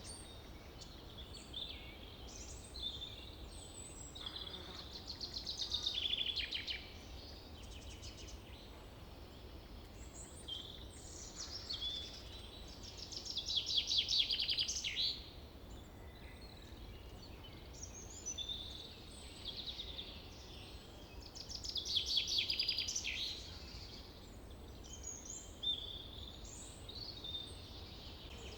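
Small songbirds chirping and calling over and over, with three louder rapid trills, about five, thirteen and twenty-two seconds in.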